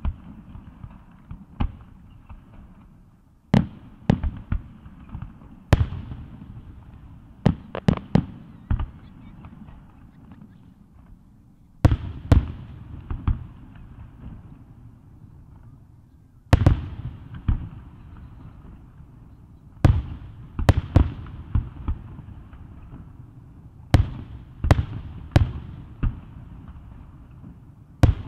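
Aerial firework shells bursting: sharp booms at irregular intervals, often two or three in quick succession, each trailing off in a low rolling rumble.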